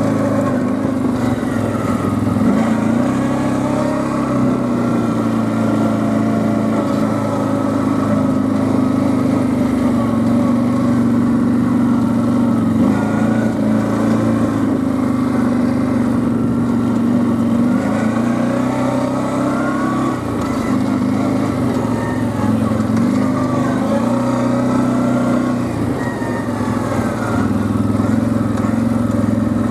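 Quad bike (ATV) engine running steadily under way, its pitch shifting up and down a little with the throttle, with brief eases off about two-thirds of the way through.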